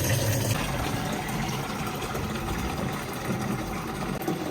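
Water running steadily from a hose into a bucket as it fills.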